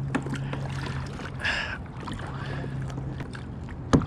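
Small noises of a fishing kayak on the water: a steady low hum under faint splashing and handling sounds, a short hiss about a second and a half in, and one sharp knock near the end.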